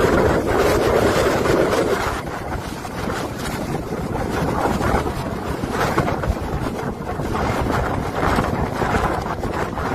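Strong whirlwind storm winds gusting and buffeting the microphone, a loud rushing noise that swells and eases.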